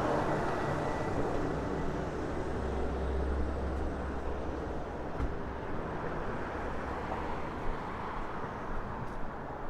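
Outdoor city street ambience: a passing vehicle's low engine rumble builds over the first few seconds and fades after about the middle, over a steady traffic hum.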